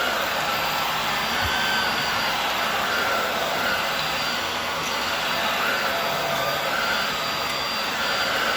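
Hoover WindTunnel Air Steerable upright vacuum cleaner running on a rug: a steady rush of suction with a faint whine that wavers slightly up and down in pitch.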